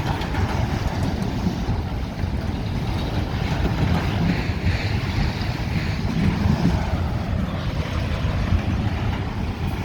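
Freight train cars rolling past: a steady rumble of wheels on rail, with wind noise on the microphone.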